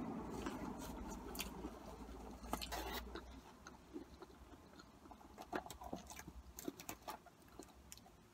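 Quiet chewing of cheesy curly fries, with scattered small clicks and taps of a plastic fork picking through fries in a styrofoam container.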